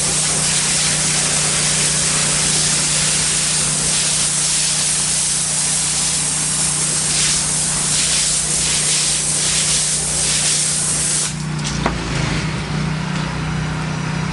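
Pressure washer spraying water at low pressure onto ceramic patio tile, a loud steady hiss, with the machine's engine running underneath as a steady low drone. The spray cuts off about eleven seconds in while the engine keeps running.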